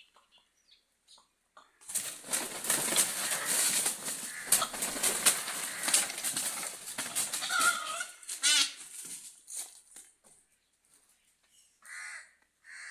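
Birds in an enclosure: a loud burst of flapping and squawking for several seconds, then a single call, and short caw-like calls near the end.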